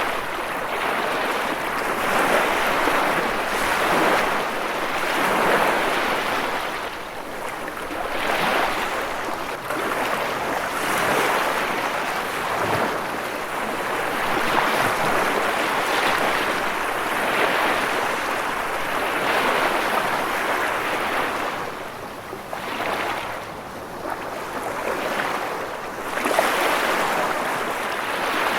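Ocean waves breaking and washing in, a continuous rush of surf that swells and eases every few seconds.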